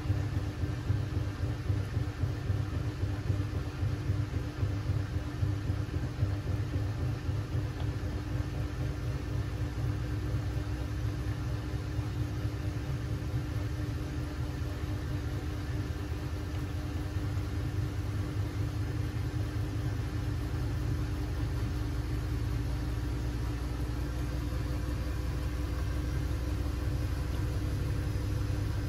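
Siemens Siwamat 6143 front-loading washing machine running during a boil wash: a steady low rumble with a motor hum, slightly uneven at first and then even.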